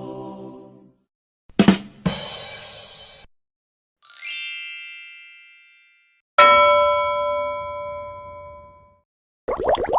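A run of separate short editing sound effects with gaps of silence between them: two sharp hits with a crashing decay, then a glittering chime that rings down, then a single bell-like ding that rings out for a couple of seconds. Near the end a fast pulsing, bubbling sound starts.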